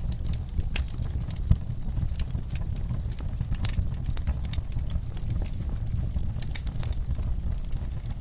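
Wood fire in a fireplace crackling: frequent irregular sharp pops over a steady low rumble, with one louder pop about a second and a half in.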